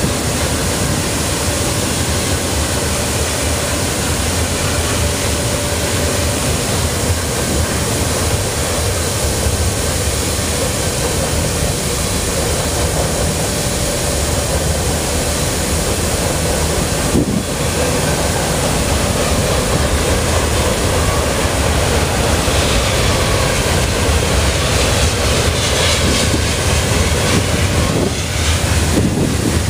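Freight train cars (covered hoppers and boxcars) rolling past, a steady loud rumble and clatter of steel wheels on rail. A wavering high squeal comes in near the end.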